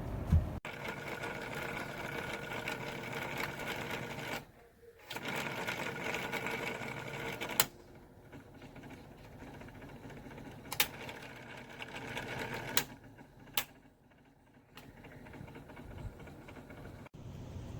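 A small electric motor whirring in stretches, stopping and restarting twice, with a few sharp clicks in between.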